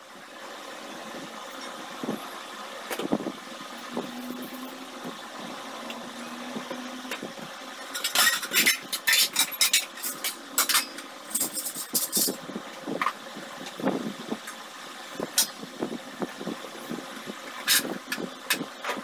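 Stainless steel pots and bowls clinking and clanking as they are handled and taken out of a kitchen cabinet and set down on the floor. The clanks come thickest in a rapid run from about eight to twelve seconds in, over a steady background hum.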